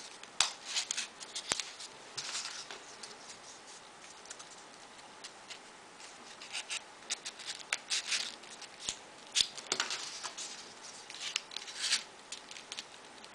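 Folded paper pieces of a modular origami model rustling and clicking as they are pushed onto the model by hand, in short bouts with a quieter stretch a few seconds in.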